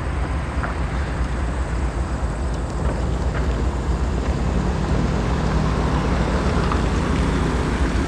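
Wind buffeting the microphone, a steady low rumble with a hiss above it.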